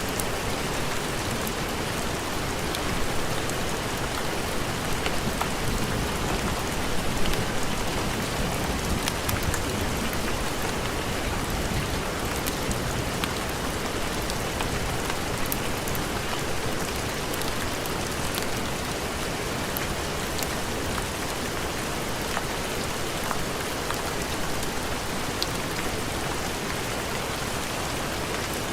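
Steady heavy rain, a dense even hiss with scattered small drop ticks.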